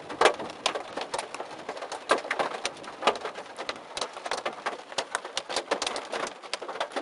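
Heavy rain pelting a car's windshield and roof, heard from inside the car as a dense, irregular patter of sharp ticks.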